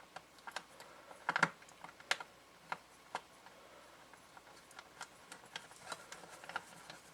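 Light, scattered clicks and taps of small hard objects being handled, with a short cluster of clicks a little over a second in.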